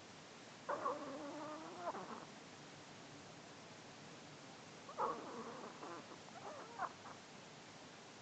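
A tiny one-kilogram Maltese snoring in deep sleep: two pitched snores about four seconds apart, each lasting around a second and a half.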